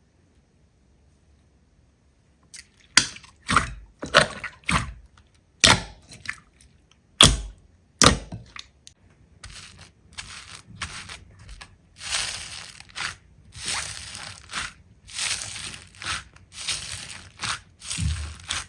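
Slime being handled by hand: after a moment of quiet, a string of sharp clicking pops, then a rhythmic run of squishing sounds at about two a second.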